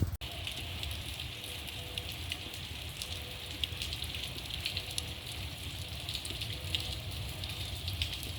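Steady rainfall: an even hiss full of small drop taps, with a low rumble underneath.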